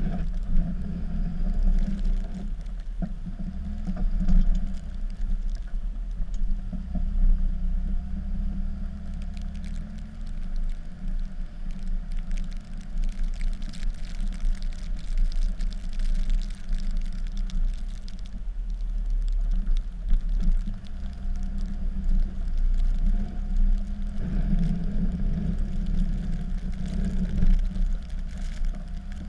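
Dodge pickup's Cummins turbo-diesel engine running under load while plowing snow, a steady low rumble that swells and eases.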